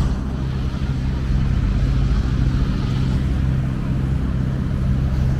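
A vehicle engine running with a steady low hum, amid street traffic.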